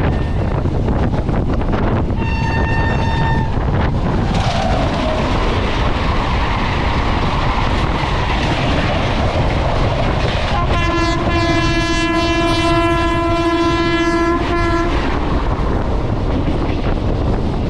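Indian Railways train passing close by at speed, with a steady loud rumble and wheels clattering over the rails. A short, high horn blast sounds about two seconds in, and a longer, lower horn is held for about four seconds past the middle.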